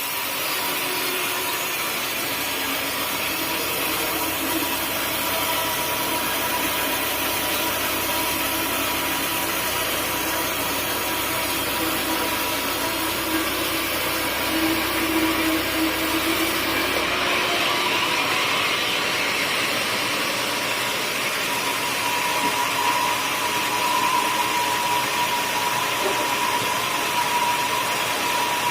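Sawmill machinery running with a steady mechanical noise and a held whine. A low hum drops out about two-thirds of the way through while the rest keeps running.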